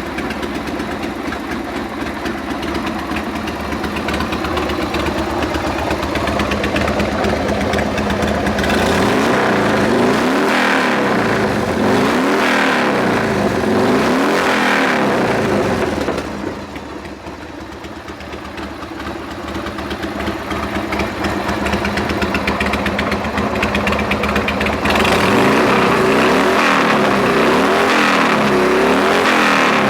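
1996 Harley-Davidson Sportster XL1200's air-cooled Evolution V-twin running: it idles steadily at first, then is revved up and down several times, drops back to a quieter idle in the middle, and is revved in short blips again near the end.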